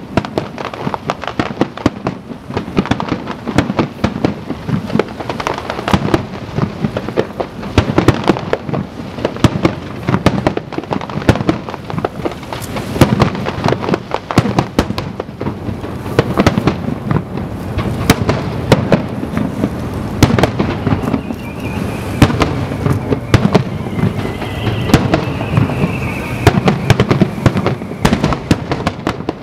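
Japanese aerial firework shells fired in a rapid barrage (a starmine), bursting in a dense, unbroken string of booms and crackles.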